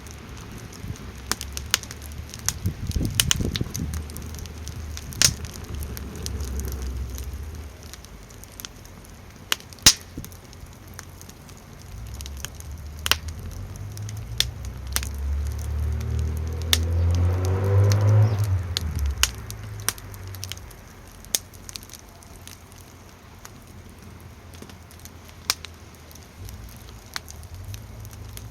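Wood fire crackling in a small campfire stand, with irregular sharp pops throughout. A low rumble of wind gusts swells up twice, strongest about two-thirds of the way through.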